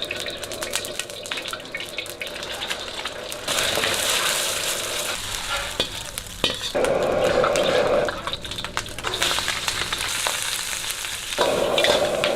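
Stir-frying: food sizzling in a hot pan amid the clicks and scrapes of a spatula stirring it. The sizzle grows louder about three and a half seconds in.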